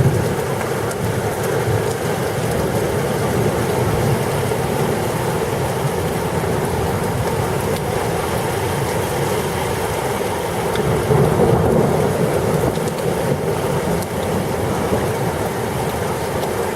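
Heavy thunderstorm rain pouring steadily, with thunder rumbling underneath that swells a little about eleven seconds in.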